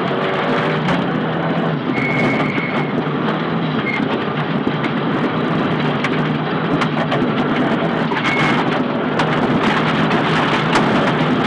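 Nissan Silvia S15 rally car driven at speed on a stage, heard from inside the cabin: the engine runs steadily under the dense rush of tyre and road noise, with frequent sharp clicks and knocks from the road hitting the car.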